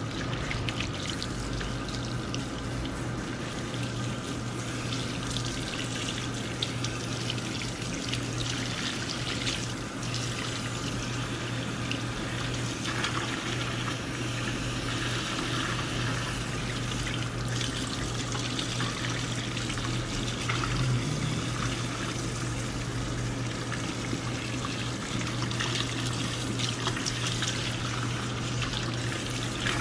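Water running steadily from the faucet of a barber shop shampoo sink during a hair wash.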